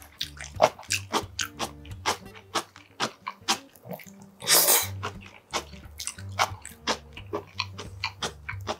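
Close-up eating sounds of raw chopped live octopus (sannakji) with greens: a run of wet, sticky chewing clicks and lip smacks, with one loud slurp about four and a half seconds in as a new mouthful is sucked in.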